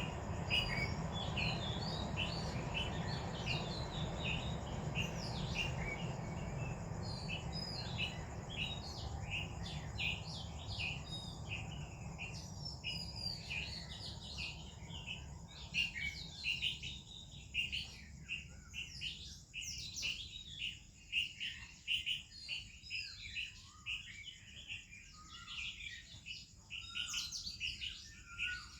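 Oriental magpie-robin and other songbirds chirping and singing in a busy morning chorus of short, quick whistles and warbles. A low background rumble dies away by about halfway through, leaving the birdsong clearer.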